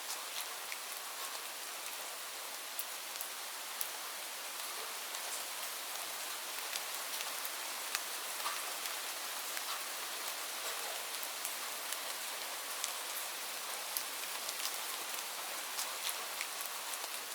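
Steady rain falling, a continuous hiss with many sharp ticks of individual drops hitting a surface.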